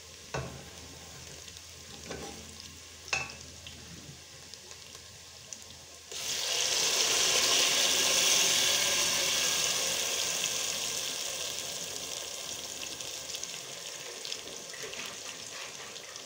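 Chopped onions sizzling quietly in oil in a stainless steel pot, with a few short knocks. About six seconds in, blended tomatoes hit the hot oil and the pot hisses loudly. The sizzle then slowly dies down as the sauce is stirred with a spatula.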